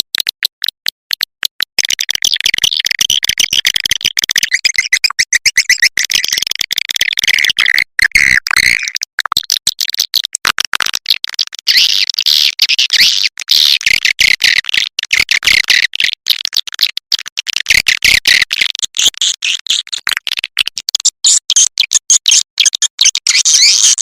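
Swiftlet lure recording: a fast rattle of dry clicks, then a dense, shrill twittering of many swiftlets with clicks running through it, easing briefly in the middle.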